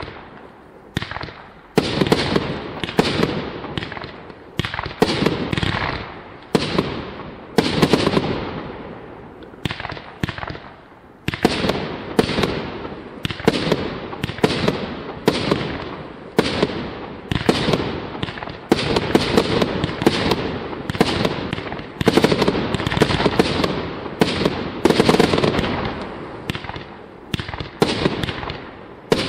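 Jorge Fireworks Platinum Series 100-shot compound barrage firing shot after shot: a long run of sharp bangs, roughly one to two a second, each fading off before the next. The shots thin out briefly about ten seconds in, then keep coming.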